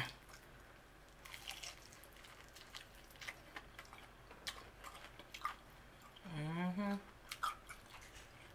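Close-up chewing and biting of a sauce-dipped battered fried chicken wing: soft crunches and wet mouth clicks. A short hum about two-thirds of the way through.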